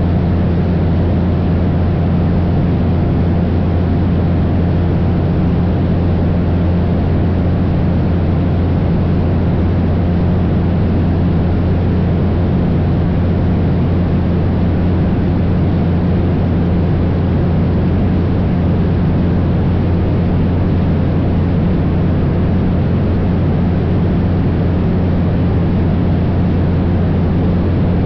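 Cessna 172's piston engine and propeller droning steadily in cruise, with a strong low hum and no change in pitch or level.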